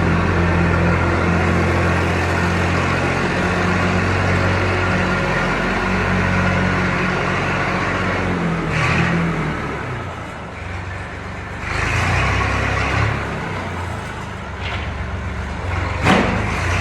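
Massey Ferguson scrape tractor's diesel engine running steadily. In the second half it eases and picks up again, with louder surges of noise and a brief sharp rise near the end.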